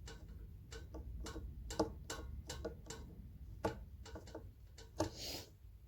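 Irregular light clicks and taps of a Phillips screwdriver and screws being worked into a ceiling fan's mounting holes, with a brief scrape about five seconds in.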